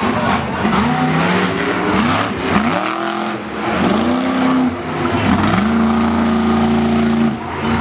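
A vehicle engine revved up and down several times, then held at high revs for a couple of seconds near the end.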